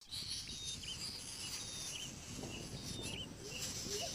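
A bird calling over and over, about once a second, each call a thin high whistle followed by a short chirp, over a steady high insect buzz. A lower wavering sound with sliding pitch starts near the end.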